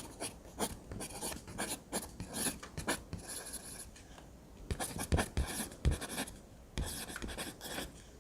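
Drawing strokes scratching on paper, irregular and quick, with a few firmer taps about two-thirds of the way through.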